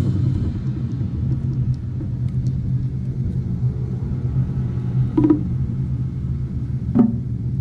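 Large drums held in a low, steady rumble, with single strikes about five seconds in and again near the end.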